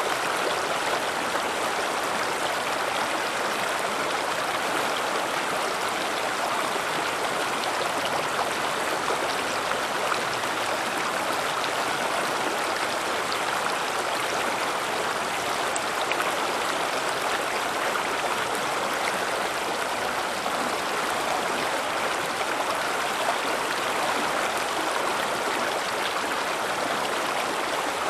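River water flowing over rocks: a steady rushing and burbling.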